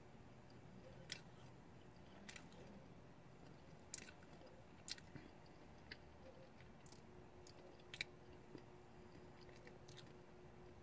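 Faint mouth sounds of someone chewing a bite of a chocolate-dipped Peeps marshmallow chick, with short soft clicks about once a second.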